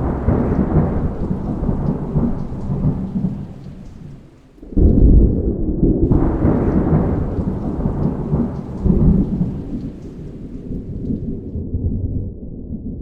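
Thunder during a thunderstorm: two loud rumbling peals. The first breaks suddenly and fades over about four seconds. The second cracks in just before the halfway point, swells again and then slowly rolls away.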